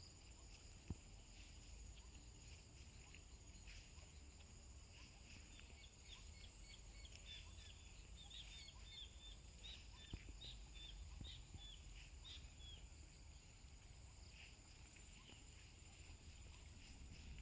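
Faint steady high-pitched drone of insects such as crickets, with a bird calling a quick series of short chirps in the middle.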